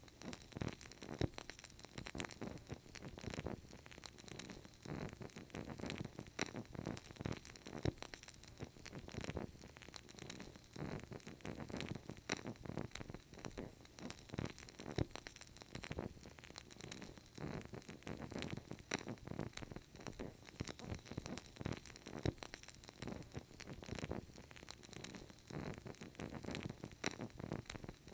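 Burning candle crackling softly, many small irregular crackles and pops from the flame and wick.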